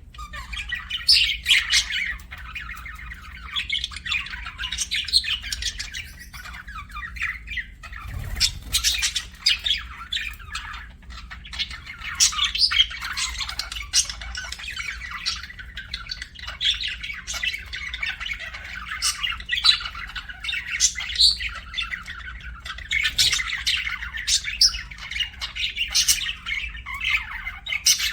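Budgerigars chirping without a break: many short, high calls one after another.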